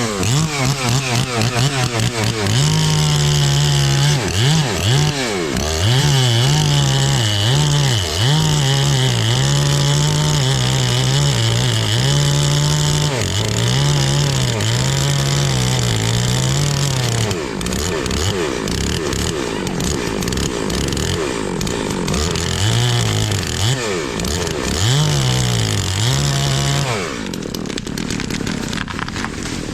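Chainsaw running at high revs, the engine pitch repeatedly dipping and rising as the throttle is eased and opened. Near the end it drops to a lower, quieter running.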